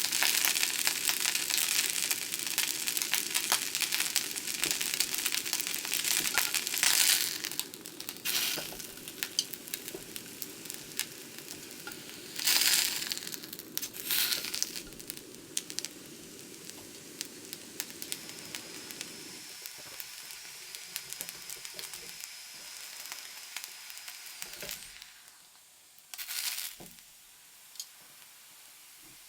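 Food sizzling and crackling as it fries, with louder crinkling and rustling handling noises now and then. A low steady hum under it cuts off about two-thirds of the way through, and the sizzle goes on more quietly.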